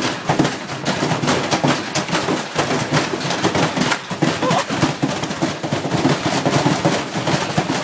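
Washing machine spinning at full speed with a car battery loose in the drum, banging and clattering rapidly and irregularly as the battery is flung around.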